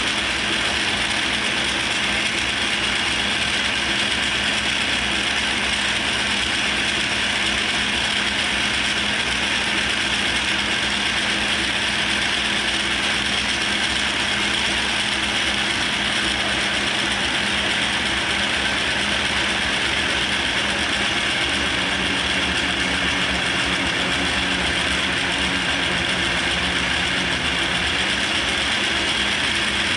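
Atlas 10F lathe running in forward with its QC42 quick-change gearbox engaged for cutting 20 threads per inch: a steady, loud noise of worn gears. The owner puts the noise down to gears binding and not meshing properly because of excessive wear in their shafts.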